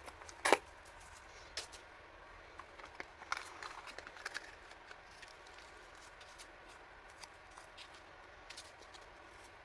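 Handling noise of stationery items and their packaging: scattered taps, clicks and light rustles, the loudest tap about half a second in, thinning to faint occasional ticks after about four seconds.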